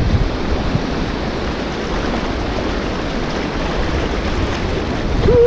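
Steady rush of water from a small river running out across the beach into the surf, swollen after heavy rain. A short pitched sound with a slightly falling tone begins near the end.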